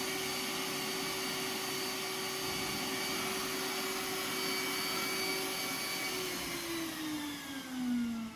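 Roomba S9 robot vacuum's suction motor running steadily with a whine, then about six seconds in it spins down, its pitch falling, as the robot shuts off after getting stuck on the shag rug.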